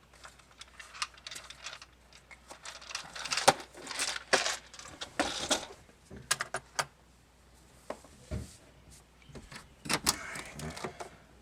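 Irregular clinks, clatters and rustles of small metal parts and tools being handled, with light metallic jingling.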